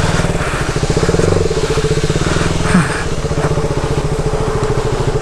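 KTM Duke 200's single-cylinder engine running steadily at low revs, its firing pulses evenly spaced.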